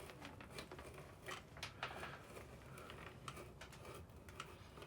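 Stanley knife blade cutting through old deck-seam caulking in teak planking, a faint scraping with irregular small clicks as the blade works along the seam.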